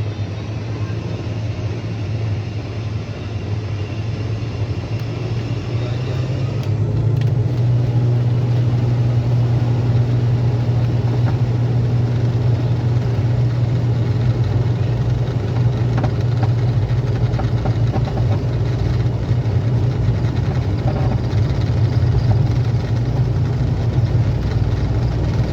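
Airliner taking off: a continuous low engine hum and rumble that steps up in loudness about seven seconds in, then holds steady during the takeoff run.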